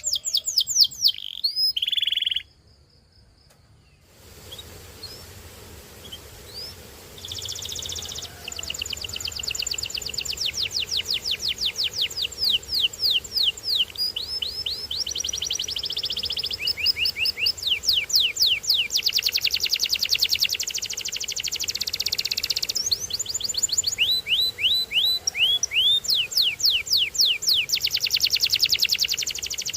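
Canary singing: long rolling trills of rapidly repeated, downward-sweeping whistled notes, changing from one tour to the next, with a brief pause about two seconds in.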